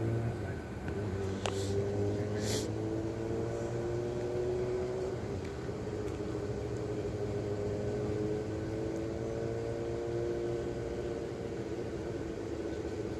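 Vehicle engine idling, its hum wavering slowly in pitch, with a sharp click about one and a half seconds in and a brief hiss about a second later.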